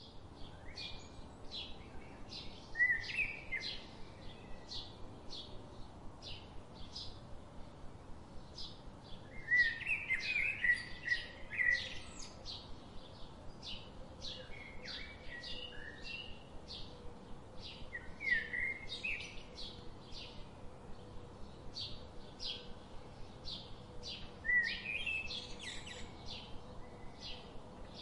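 Woodland birds: one bird repeats a short high call about twice a second, while others break in with brief bursts of song every few seconds.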